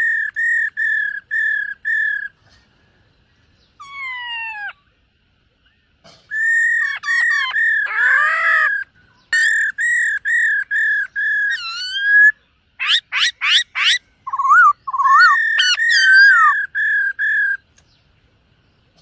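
Black-throated laughingthrush singing: phrases of rapidly repeated clear whistled notes, with several downward-sliding whistles, a quick burst of rising and falling notes, and short pauses between phrases.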